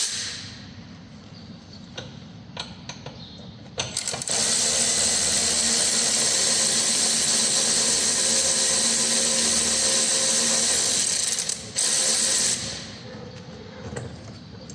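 Cordless power ratchet spinning out a 10 mm bolt holding the air box: a steady whirring run of about seven seconds, a short pause, then a brief second burst, after a few light clicks at the start.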